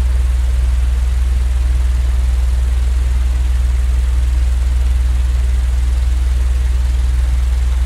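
Steady low machine hum with an even hiss over it, unchanging throughout: a continuous white-noise sleep track.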